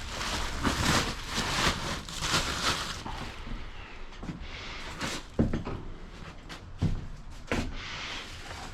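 Rustling and shuffling as soft items such as pillows are stuffed into place inside a box truck's cargo area. The rustling is dense for the first few seconds, then comes quieter handling with a few sharp knocks and bumps.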